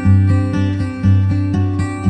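Background music: acoustic guitar picking a steady pattern over a low bass note, with a new pluck about twice a second.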